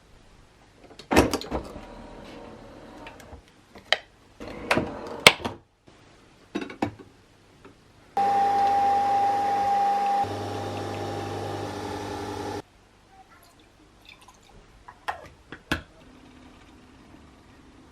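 Clicks and knocks of things being handled, then a small kitchen appliance runs with a steady hum for about four seconds, dropping in level halfway through before it cuts off suddenly. Another couple of clicks follow near the end.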